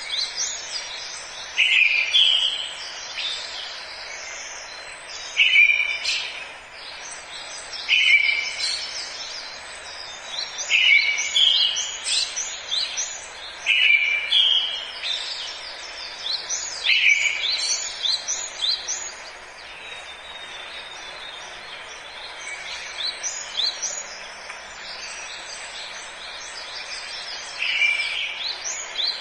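Forest birdsong: several birds singing, one repeating a short phrase that ends in a falling note every two to three seconds, with quicker high chirps from others. The songs thin out for several seconds past the middle, then resume near the end, over a faint steady hiss.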